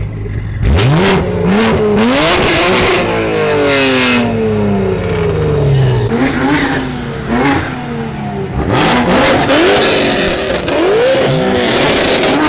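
A car engine revved hard again and again, each rev a quick climb in pitch that falls slowly back. Short sharp cracks come at the tops of several revs.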